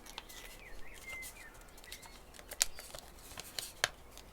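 Kami origami paper being handled and creased by hand: a scatter of sharp clicks and crinkles as a fold is marked, the loudest about two and a half and four seconds in. A faint wavering high chirp runs through the first two seconds.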